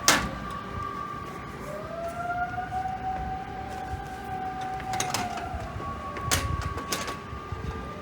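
Siren wailing, its tone held for seconds and then slowly falling and rising again, with a sharp knock at the start and a few clicks near the end.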